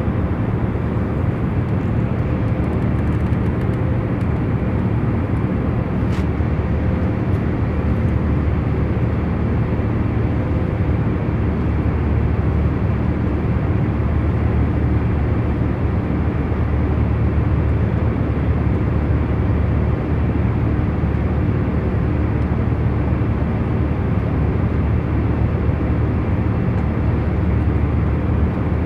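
Airliner cabin noise in cruise: a steady, even rumble that is heaviest in the low end, with a faint hum of a few steady tones underneath and no change in level.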